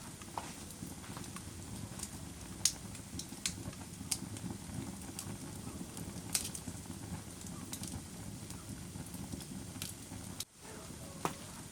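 Wood fire crackling in a fireplace: a steady low rumble of flames with scattered sharp pops, the loudest about two and a half and six seconds in. The sound dips out for a moment about ten and a half seconds in.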